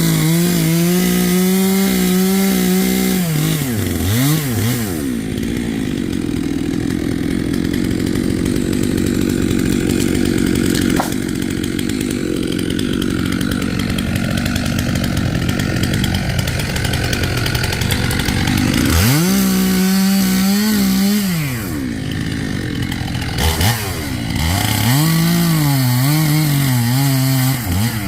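Stihl chainsaw revving to full throttle and dropping back several times, with a long stretch of lower, steady running in the middle. Near the end its pitch wavers up and down while held at high revs.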